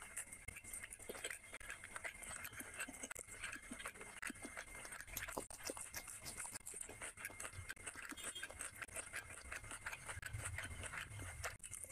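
Close-miked chewing of grilled chicken and raw green chilli, with many short irregular clicks and crunches from the mouth.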